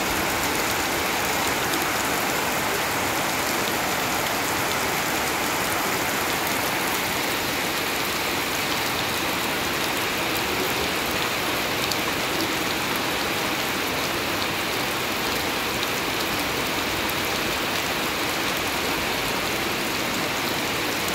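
Heavy rain falling steadily, drops splashing into puddles on muddy ground with many fine drop patters.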